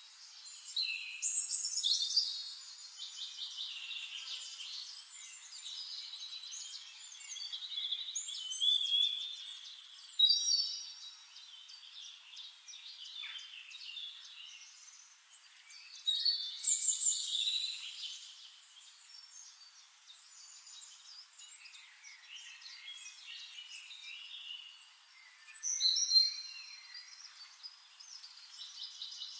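Several songbirds singing at once, a dense chorus of chirps and trills, with louder phrases standing out every several seconds.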